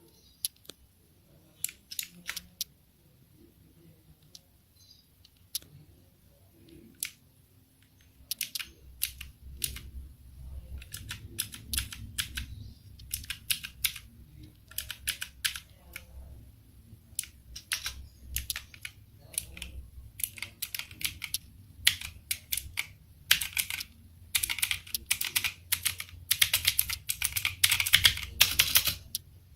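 Rexus MX5 Legionare mechanical keyboard with blue switches being typed on, the keys clicking sharply. A few scattered single keypresses come first, then steady typing starts about eight seconds in and gets faster and denser toward the end.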